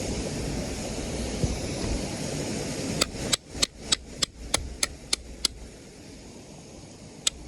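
Sharp, evenly spaced taps, about three a second, as a wooden baton strikes the spine of a knife to split firewood. They start about three seconds in, pause, and start again near the end.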